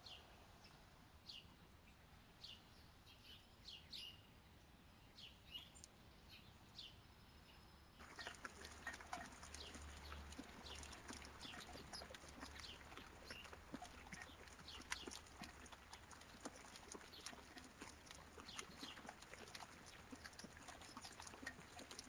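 Faint small-bird chirps, short high notes that slide downward, every second or so. About eight seconds in, a denser patter of small ticks and rustles on dry leaf litter starts, with the chirps carrying on over it.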